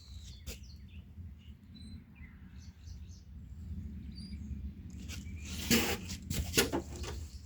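A few faint, short high chirps, typical of small birds, over a steady low hum, then a brief burst of rustling and clicks about six seconds in.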